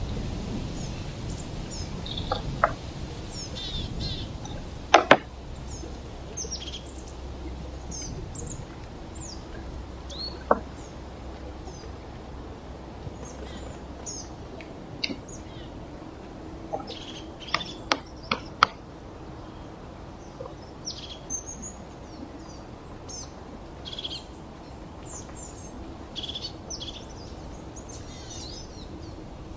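Small birds chirping and calling repeatedly in short high notes, over a steady background hiss. A few sharp clicks or knocks break in, the loudest two about five seconds in and a quick cluster around eighteen seconds.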